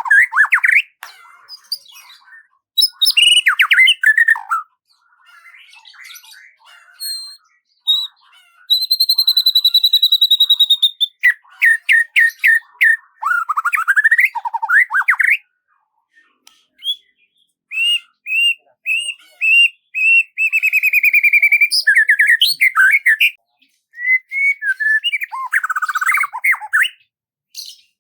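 A songbird singing a varied song of whistled phrases and trills, with short pauses between phrases. About ten seconds in comes a long, steady whistled note. Later a run of repeated notes speeds up into a rapid trill.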